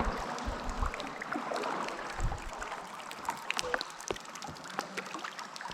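Kayak paddling on still water: paddle blades dipping and dripping, with scattered small splashes, drips and light knocks against the boat.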